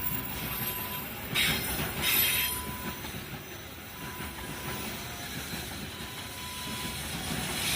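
Freight train cars rolling past, a steady rumble with wheel squeal rising about a second and a half in and again near two seconds.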